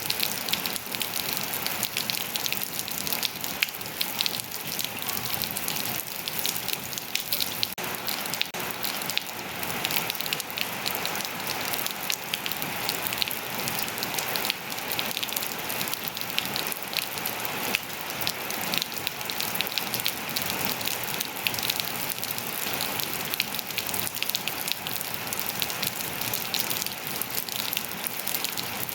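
Steady rain falling on hard surfaces, a dense hiss of many small drop impacts with no lulls.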